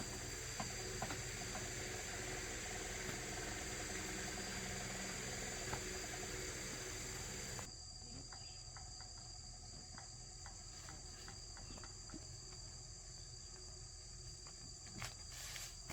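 Insects, crickets or similar, chirring steadily in an even high-pitched tone, with a few faint knocks. The background hiss beneath them drops suddenly about halfway through.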